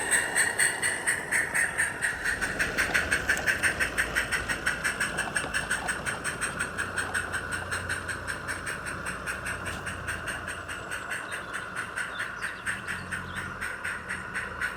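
Live steam 7/8" scale garden-railway locomotive running, its exhaust beat sharpened by a Summerlands Chuffer: a fast, even run of chuffs at about four a second, slowly getting quieter.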